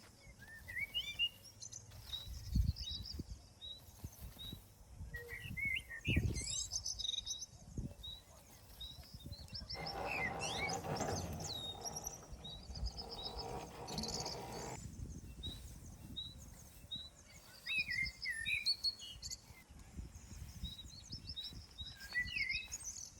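Several songbirds singing: chirps, quick trills and a run of short repeated high notes. Now and then there are low thumps, and a broad rushing noise lasts about five seconds in the middle.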